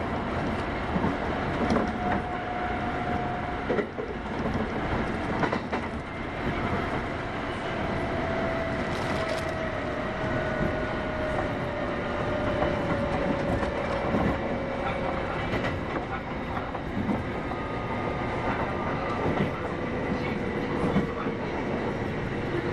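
Kintetsu 8810 series electric train running, a steady rumble with a whine that slowly falls in pitch and a few scattered clacks from the wheels over the track.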